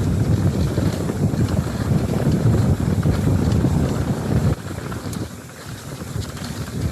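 Wind buffeting the microphone on a moving mountain bike ride, a loud low rumble with scattered small ticks and rattles; it eases about four and a half seconds in, then builds again near the end.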